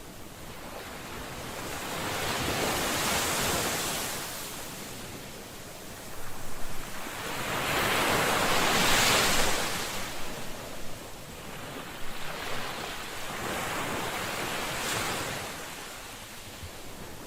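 Ocean waves washing onto a shore: three waves surge and recede in turn, the middle one, about nine seconds in, the loudest.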